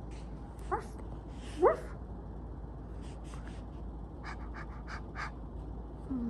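Two short, rising puppy whines, voiced by a person imitating a dog, the second one louder, followed a few seconds later by a handful of light clicks.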